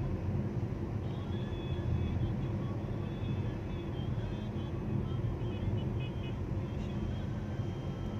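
Steady city street traffic noise: a continuous low rumble of vehicles, with faint short high tones scattered through it.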